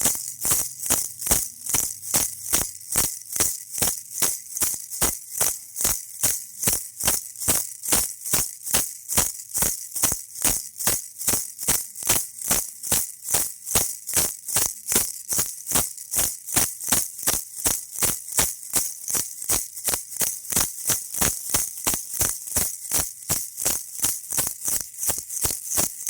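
Baby toy rattle shaken steadily in an even rhythm of about three crisp shakes a second, its beads making a bright, high rattle.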